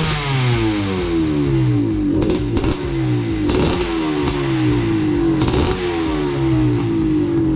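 1986 Husqvarna 400 XC two-stroke single-cylinder dirt bike engine running and being revved: several times the throttle is blipped and the revs then fall slowly back toward idle.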